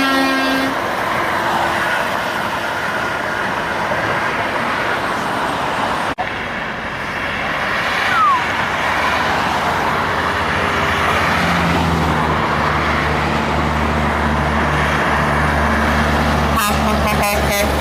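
Heavy diesel trucks passing on a highway, with a truck air horn cutting off in the first second. From about halfway a truck's diesel engine drone builds low and steady, with a rapid pulsing near the end.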